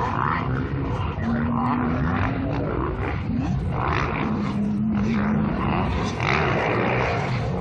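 Motocross dirt bike engine running, its note shifting between pitches several times.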